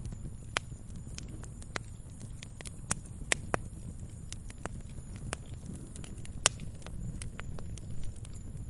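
Wood fire crackling in a fireplace: a steady low rumble of flames with irregular sharp pops and snaps, the loudest about six and a half seconds in.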